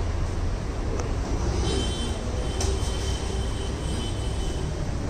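Steady low vehicle rumble, with a faint high-pitched whine through the middle and a few light clicks.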